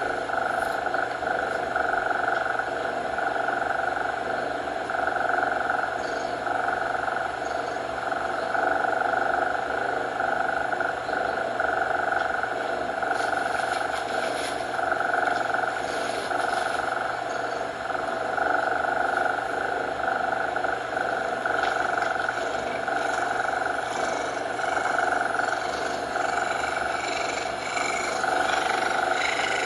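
A cat purring continuously, swelling and easing every couple of seconds with its breathing, over a steady layer of coloured noise.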